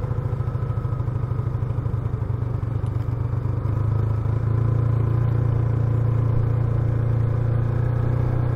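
Motorcycle engine running steadily under way, growing a little louder about four seconds in.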